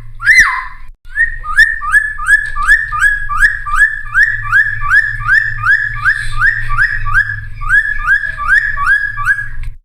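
A cucak timor singing: one loud up-and-down whistled note, then after a short break a long, even series of short rising whistles, about two a second. It cuts off abruptly near the end. A low hum runs underneath.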